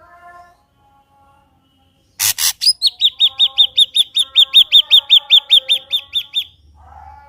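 Ashy drongo singing. After a stretch of soft warbling it gives two loud harsh calls about two seconds in, then a fast run of clear, high, repeated notes, about five a second, that stops shortly before the end.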